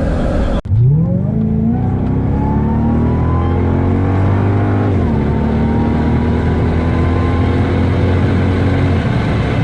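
Cadillac STS-V's supercharged 4.4-litre V8 accelerating at wide-open throttle, its pitch climbing steadily. About five seconds in it drops briefly at an upshift, then climbs again through the next gear.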